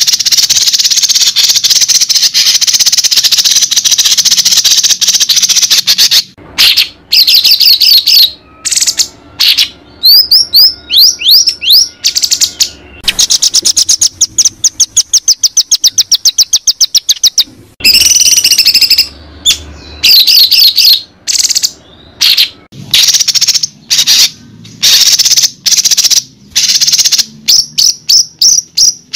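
Songbird song played as a training track (masteran) for white-rumped shamas. It is loud, varied and continuous, with gliding whistled notes and short pauses between phrases. Near the middle comes a fast run of rapidly repeated notes lasting a few seconds.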